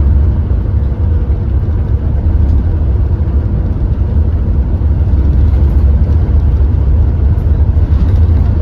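Engine of a Hyundai New Super Aero City CNG city bus running steadily, a continuous low rumble.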